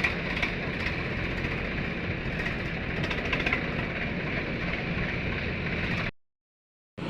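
Diesel engine of heavy earth-moving or tractor machinery running steadily, with light metallic rattles over it. The sound cuts out abruptly for under a second near the end.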